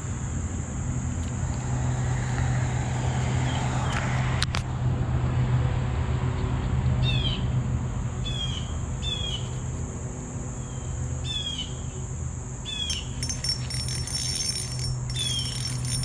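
Outdoor creek-side ambience: a steady high insect trill over a low steady hum, with one sharp click about four seconds in. From about seven seconds on, a bird repeats short, downward-slurred chirps every second or two.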